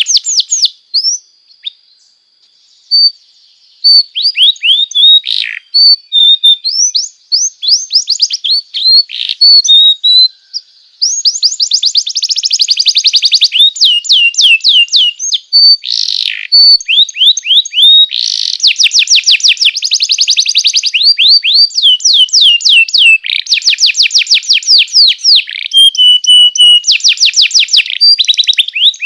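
Domestic canary singing: scattered chirps, whistles and short trills for the first ten seconds or so, then long, almost unbroken runs of fast trills of rapidly repeated notes.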